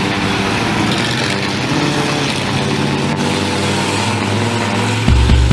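Monster truck engine running steadily. About five seconds in, a louder deep bass sound comes in on top.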